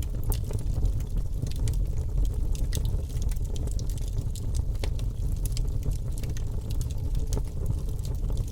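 Wood fire burning in a fireplace, with frequent irregular crackles and small pops over a steady low rumble.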